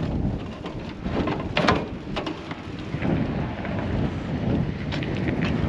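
Wind buffeting the microphone as a steady low rumble, with a few light knocks and clatters, about one and a half seconds in and again near the end.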